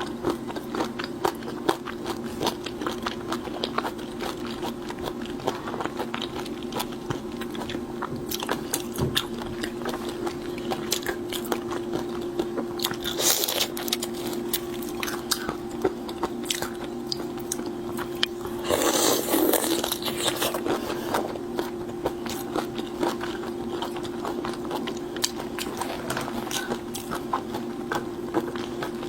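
Close-miked eating of seafood: chewing and crunching with many sharp clicks. There are two louder crackling bursts, near the middle and about two-thirds through, over a steady low hum.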